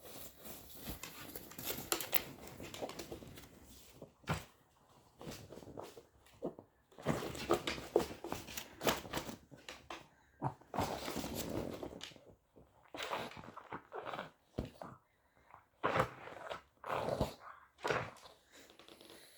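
A pug sniffing and snuffling at a fabric snuffle mat in irregular bursts of short noisy breaths, with rustling of the mat.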